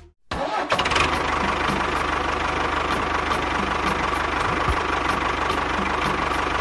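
A small engine or motor running steadily, with a fast, even knocking rhythm under a steady whine.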